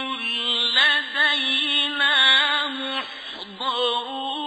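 A male reciter chanting the Quran in the slow, melodic mujawwad style, drawing out long ornamented notes with wavering pitch, with a short break for breath about three seconds in.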